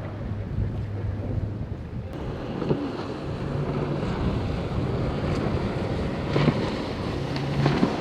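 A boat engine running with a steady low drone as it passes through the inlet, its note stepping up a little about two seconds in. Wind buffets the microphone over the wash of waves, with a few short knocks.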